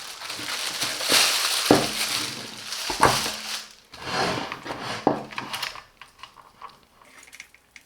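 Unboxing handling noise: packaging rustling and scraping, with a few sharp knocks as the heater and its packing are handled. It dies down over the last two seconds.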